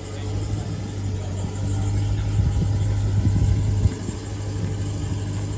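Modified Hemi V8 muscle car engine idling steadily.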